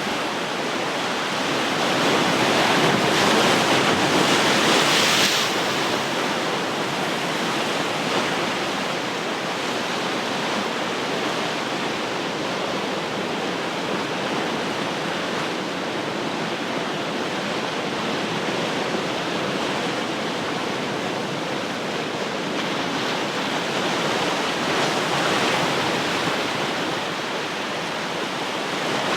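Ocean surf: waves breaking and washing in as a continuous rush, swelling with a larger wave a few seconds in and again near the end.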